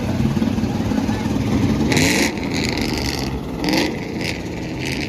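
Truck engine running with two quick revs, rising in pitch, under several short, loud bursts of high hissing about two seconds in and near the end.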